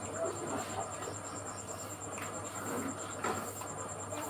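An insect chirring steadily: a high, even, rapidly pulsing trill that goes on without a break, over faint outdoor background.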